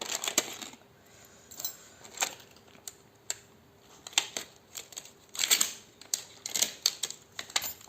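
Small gun-replica keychains clinking and their packets rustling as they are unwrapped and handled: irregular clicks and short crinkling bursts, with a few sharper clicks.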